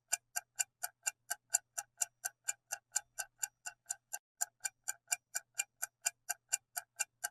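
Countdown timer sound effect: a steady clock ticking, about four ticks a second.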